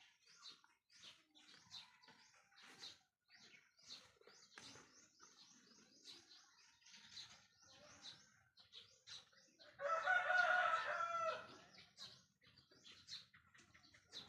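Small birds chirping in quick, short calls throughout, and a rooster crowing once for about two seconds around ten seconds in, the loudest sound.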